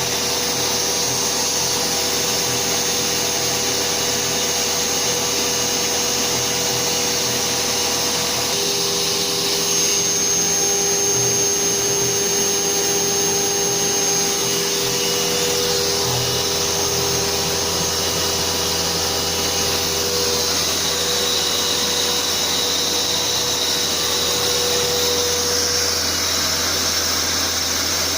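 CNC 6040Z router engraving the copper of a PCB with a 0.3 mm end mill, its spindle running under a steady dust-extraction vacuum. Several steady tones drop in and out and change pitch every few seconds as the machine moves from cut to cut.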